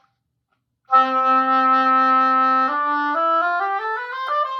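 Oboe after a pause of about a second: a long tone held for about two seconds, then a quick stepwise scale rising about an octave. Warm-up long tones and scales.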